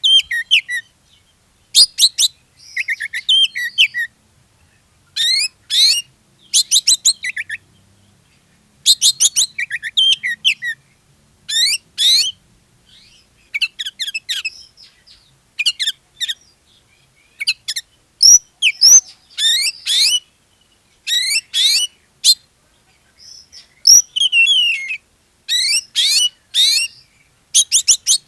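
Oriental magpie-robin (kacer) in full, energetic song: bursts of fast, varied whistled and chattering notes, phrase after phrase with short pauses between.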